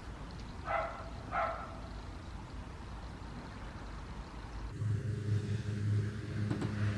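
Two brief calls near the start over faint outdoor background, then, after about five seconds, a car engine running with a steady low hum.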